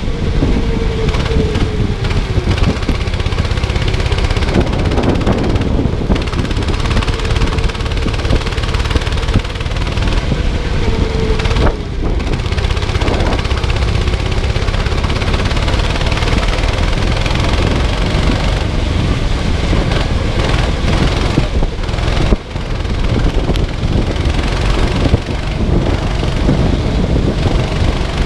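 Kart engine running hard, its pitch dropping and climbing again several times as it slows for corners and accelerates out, under heavy wind buffeting on the microphone.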